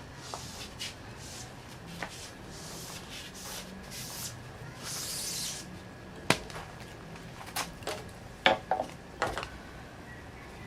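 Hands-on work noises: scattered sharp clicks and knocks, with short hissing, rubbing swishes between them. The loudest is a quick run of knocks about two-thirds of the way through.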